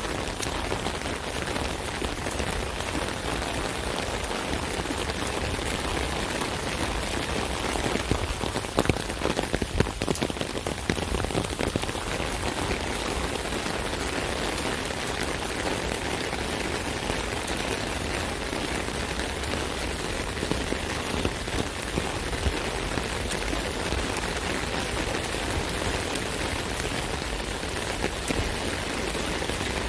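Steady rain falling on an umbrella, a dense patter of drops striking the canopy, with a spell of heavier, louder drop hits about eight to twelve seconds in.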